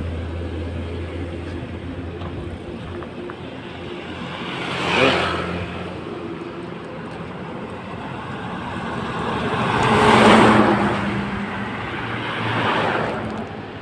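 Road traffic passing by: three vehicles go past, a quick one about five seconds in, the loudest a few seconds later and another near the end, over a low engine hum that fades during the first half.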